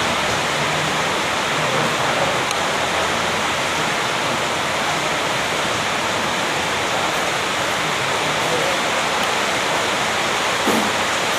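Steady, loud rushing noise with no let-up, with faint low voice traces now and then and a small knock near the end.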